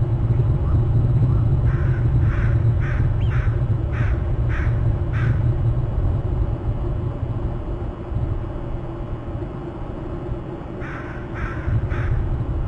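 A bird giving a run of about seven short harsh calls, roughly two a second, then four more near the end, over a steady low rumble.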